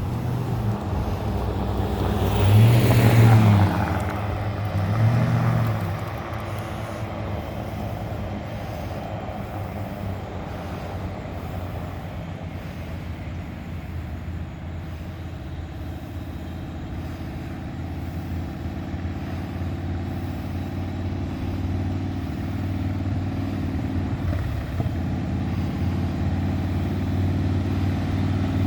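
A motor vehicle engine running steadily, with two louder swells about three and five seconds in, the first carrying a falling hiss.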